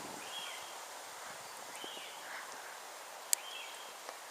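Outdoor background hiss with a bird's short high chirps, each dropping slightly in pitch, repeating every second or two. There is one sharp click a little after three seconds in.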